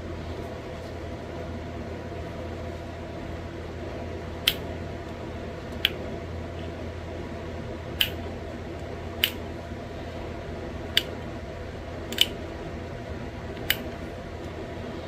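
Pressure flaking a thin green Novaculite flake into a small bird point: seven sharp, single clicks at irregular intervals of one to two seconds as small flakes pop off the edge, over a steady low hum.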